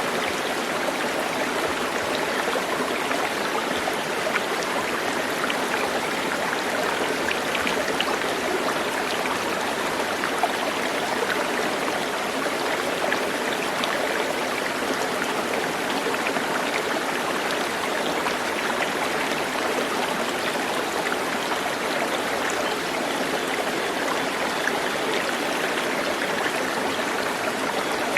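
Running water rushing steadily, like a stream.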